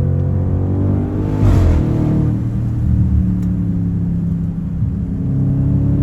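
Straight-piped twin-turbo 4.0 TFSI V8 of an Audi A8L running under way: the revs climb with a brief louder burst about a second and a half in, then drop and settle to a lower, steady drone.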